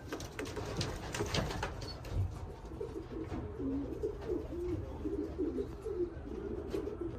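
Racing pigeons cooing over and over in a loft, with a few light clicks in the first couple of seconds and again near the end.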